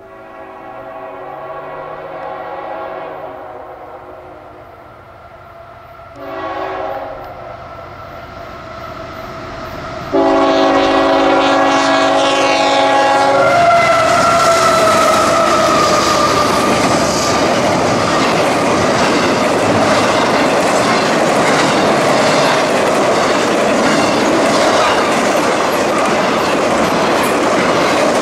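Locomotive air horn sounding as a train approaches: a long chord, a short blast, then a much louder long blast. Its pitch then drops as the locomotive passes, and the steady rumble and clickety-clack of the train rolling by follows.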